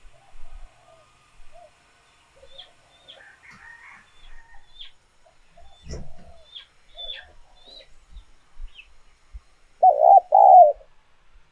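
Spotted doves cooing: faint coos throughout, then a loud, close two-note coo near the end. Small birds chirp high in the background.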